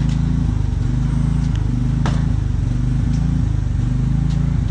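A steady low mechanical drone like a running engine or motor, with a few sharp light clicks and knocks over it.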